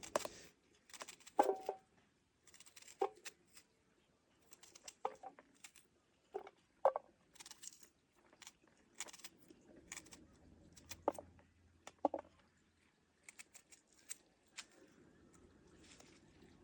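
Food-preparation handling sounds: irregular clicks, light knocks and rustling, with a few short ringing taps.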